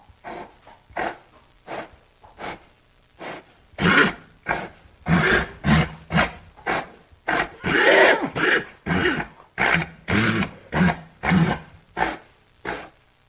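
A horse giving short, throaty breaths or grunts, about two a second, growing louder through the middle and fading near the end.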